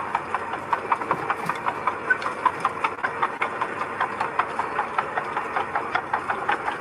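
Mini bulldozer's diesel engine running with a steady, rapid clatter, about six beats a second.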